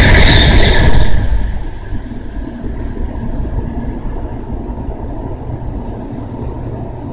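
N700 Shinkansen bullet train passing at speed: a loud rush of air and rail noise that drops off sharply about a second in as the tail of the train goes by, leaving a lower, steady rumble.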